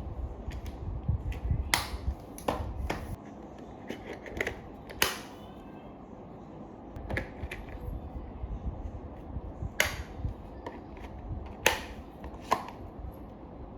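Irregular sharp clicks and snaps, with light rustling, as the vacuum cleaner's parts and packaging are handled, plus a low rumble in the first few seconds.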